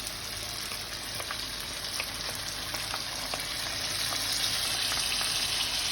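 Chicken frying in oil in a karahi with freshly added ginger-garlic paste and water, sizzling steadily and getting louder from about four seconds in. A few faint clicks of stirring.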